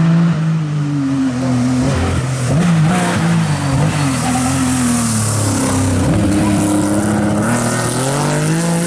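Historic rally car's engine at full throttle and revving hard, its pitch climbing and falling again several times as the driver shifts gear and lifts off.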